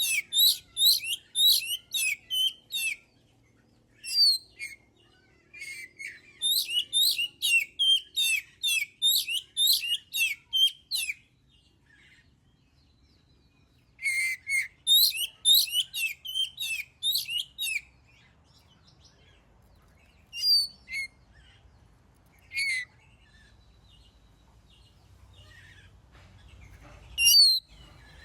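Oriental magpie-robin (kacer) singing in full song: runs of loud, quick whistled notes, about three a second, in phrases of several seconds broken by pauses, with a few single notes near the end.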